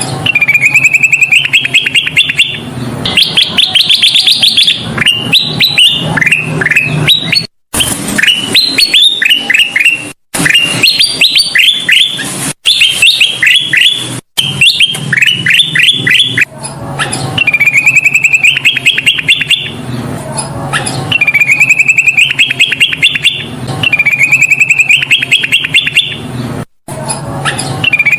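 Kutilang emas bulbul singing: loud, rapid runs of short chirping notes, many climbing in quick rising series, repeated again and again, with a few split-second dropouts where the recording cuts.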